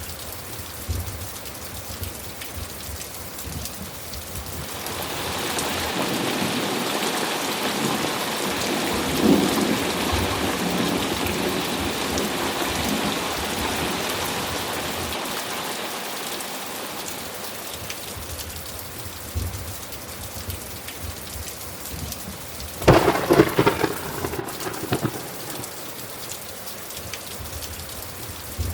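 Steady rain with thunder. A long rolling rumble of thunder builds about five seconds in and dies away slowly, then a sudden sharp crack of thunder comes about two-thirds of the way through and is the loudest sound.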